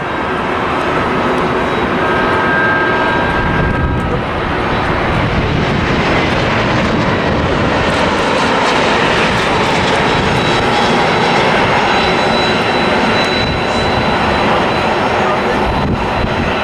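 Airbus A321 jet airliner passing close by on its landing approach: the loud, steady noise of its two turbofan engines, with a faint whine in the first few seconds.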